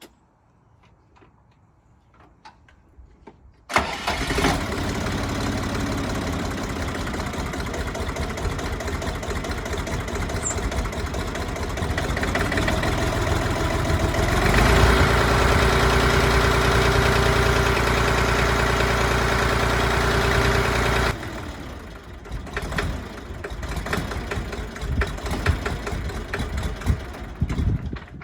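Siromer 304 tractor's diesel engine cranking and catching about four seconds in, then running steadily and getting louder partway through. About three-quarters of the way in it drops to an uneven, quieter running as it runs out of fuel.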